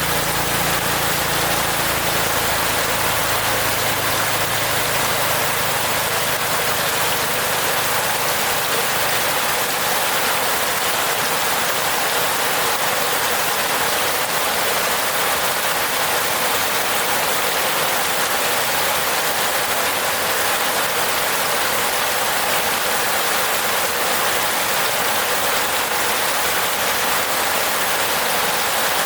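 Steady rain falling on a roof, an even, unbroken patter. A low hum sits under it at first and fades out within the first several seconds.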